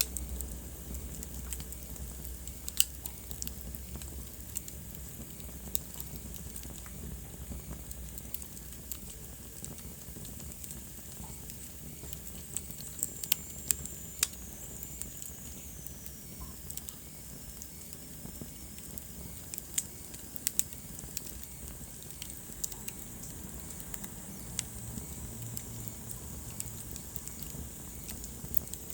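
Wood fire burning in a fireplace, crackling with sharp pops scattered irregularly over a steady low hiss and rumble. A faint high whistle slides downward in pitch about halfway through.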